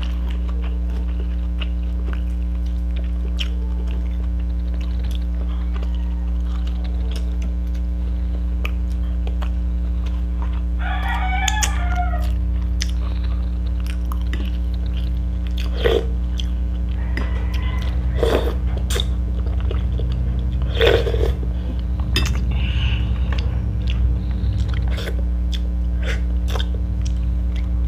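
Close-up eating sounds: chewing and lip smacks, with scattered sharp clicks as fried pompano and rice are picked apart by hand. A steady low hum runs underneath.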